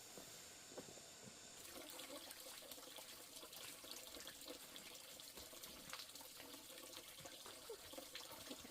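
Faint running water with small splashes and clicks, picking up about two seconds in.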